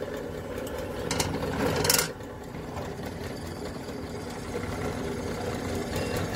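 Drill press motor running steadily, with a louder hissing burst for about a second, from about a second in, as the bit cuts into the knife-handle material.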